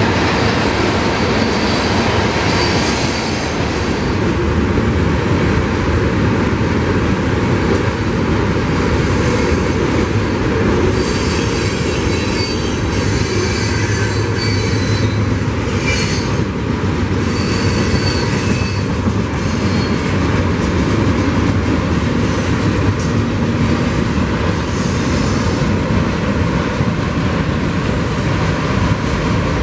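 Union Pacific rail train of flatcars loaded with long steel rails rolling past: a steady rumble and rattle of wheels on track, with high-pitched wheel squeals coming and going several times.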